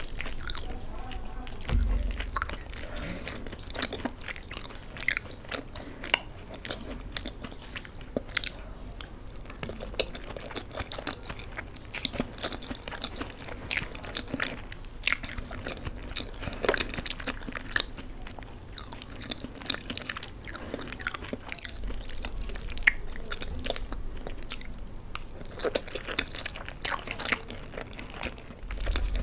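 Close-miked ASMR chewing of soft macaroni and Maggi noodles: a continuous run of wet mouth clicks and chewing sounds, irregular and closely spaced.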